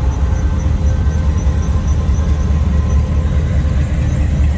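Steady low engine rumble of a vehicle rolling past at low speed.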